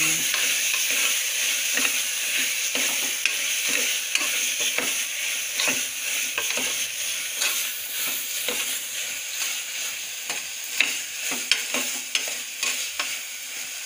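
Moong and masala sizzling in oil in an aluminium pressure cooker while a metal spoon stirs them, scraping and clicking against the pot, as the tempering is sautéed. The sizzle eases slightly over the span.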